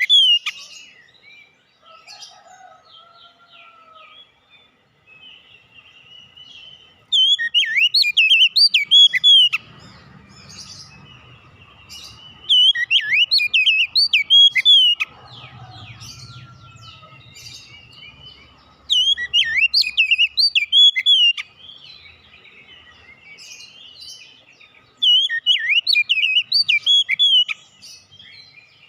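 Oriental magpie-robin (kacer) singing: loud bouts of rapid, sharply rising and falling whistled notes, each lasting two to three seconds and recurring about every six seconds, with softer twittering between them.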